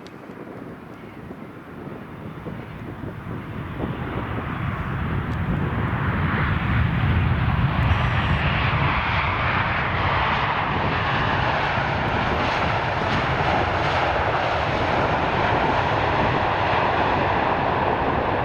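Jet aircraft engines on arrival, a broad rushing noise that grows steadily louder over the first several seconds and then holds loud and steady.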